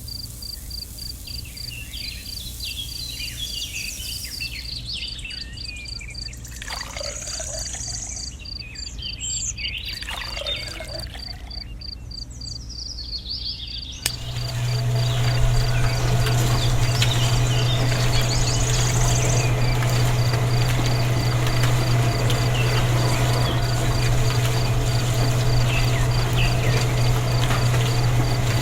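Insects chirping in a fast, even pulse, with bird calls in the middle. About halfway through, a loud, steady low hum with hiss starts suddenly and runs on.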